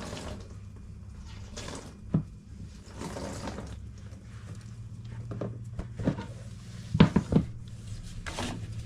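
Leftover water trickling out of a washing machine's drain pump filter opening into a container, with a few sharp knocks and clatters about two seconds in and around seven seconds.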